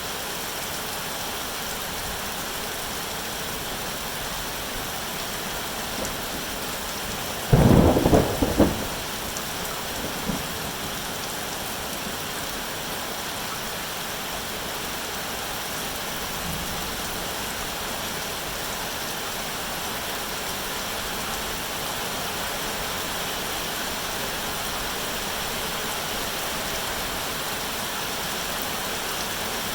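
Steady rain falling. About a quarter of the way in, a sudden loud crack of thunder lasts about a second, followed by a couple of much fainter rumbles.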